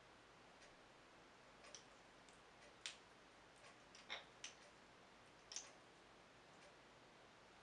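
Near silence with a handful of faint, sharp clicks at uneven intervals.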